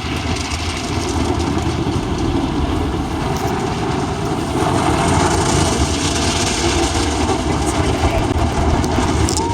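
Automatic car wash working over the car, heard from inside the cabin: a steady, loud rush of water spray and scrubbing with a low rumble underneath.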